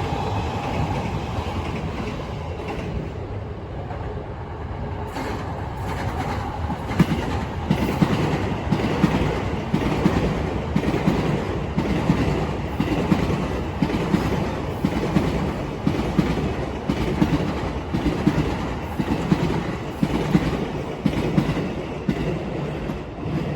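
Train passing, its wheels clacking over the rail joints in a steady rhythm that begins about seven seconds in, over a continuous rumble.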